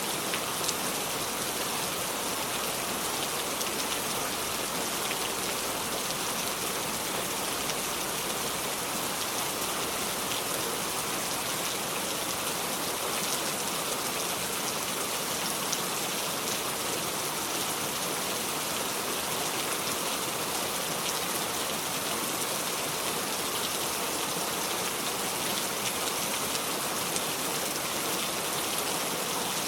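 Steady heavy rain falling, a constant even hiss with fine drop patter and no thunder.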